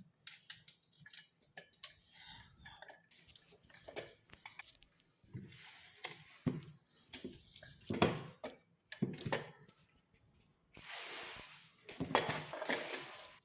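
Stainless-steel pressure cooker and lid being handled: scattered light clinks and knocks of metal, with a couple of longer rustles near the middle and near the end.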